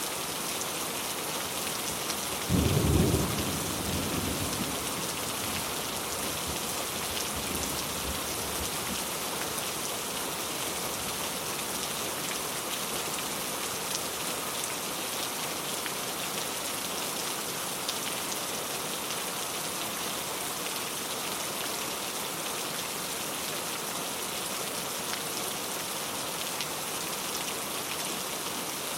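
Steady rain hissing, with a sudden clap of thunder about two and a half seconds in that rumbles away over the next few seconds.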